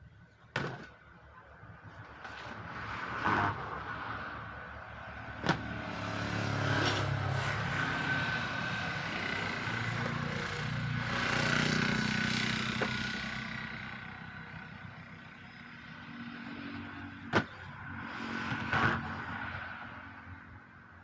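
A motor vehicle goes by, its engine and road noise swelling over several seconds and fading again, with a few sharp knocks along the way.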